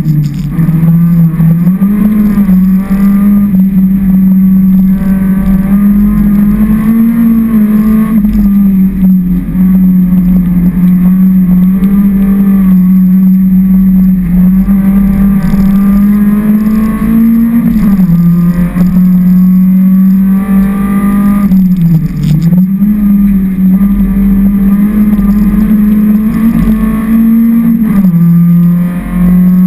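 Honda CRX race car's four-cylinder engine heard from inside the cabin, run hard with a loud, steady note that dips briefly in pitch a few times before climbing back.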